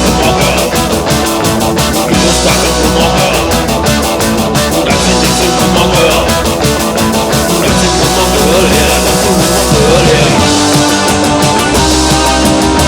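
Loud punk rock recording with a fast, steady drumbeat.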